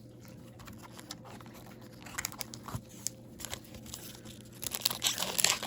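Plastic wrapper of a hockey card pack being handled and torn open: scattered crinkles and clicks from about two seconds in, growing into louder tearing and crinkling near the end, over a faint steady hum.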